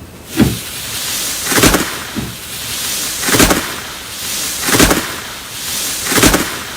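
Slime being squeezed and pressed by hand, making repeated wet squishing sounds, five swells about a second and a half apart.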